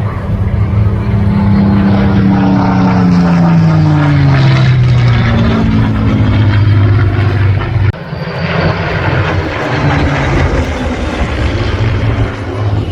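Propeller-driven piston-engined warbird flying past, its engine note dropping in pitch as it goes by. About eight seconds in the sound cuts abruptly to another steady stretch of engine noise.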